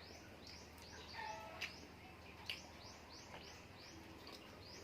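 Faint, steady series of short high chirps from a small bird, repeated about three times a second, with a couple of sharp clicks.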